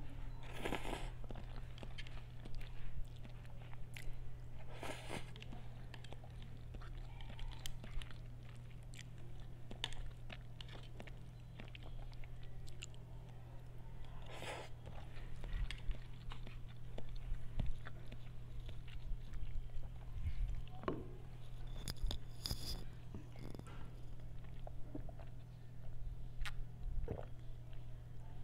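Close-miked chewing of instant noodles, with wet mouth clicks and a few louder slurps as mouthfuls go in, over a steady low hum.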